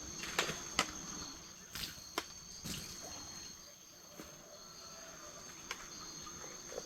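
Crickets chirring steadily in a high, even tone, with about five sharp clicks in the first three seconds.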